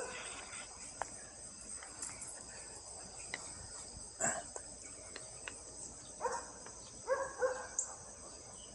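Steady high insect chorus of crickets, with distant dogs barking a few times, a short run of barks near the end.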